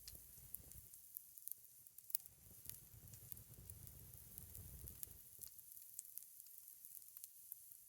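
Faint sizzling of pancakes frying in a cast iron skillet over a campfire, with scattered sharp crackles. A low rumble runs under it for the first five seconds or so.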